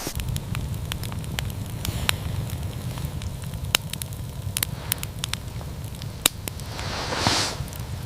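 Wood fire crackling, with sharp irregular pops over a steady low rumble and a brief whoosh near the end.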